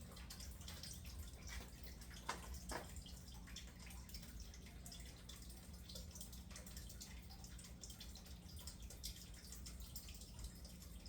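Faint scattered drips and light ticks over a steady low hum, with two sharper clicks close together about two and a half seconds in.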